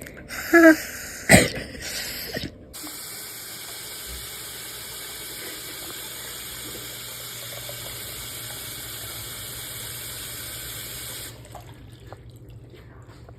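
Steady rushing noise like water running from a tap, which stops abruptly near the end. Before it starts there is a brief pitched sound and a sharp knock.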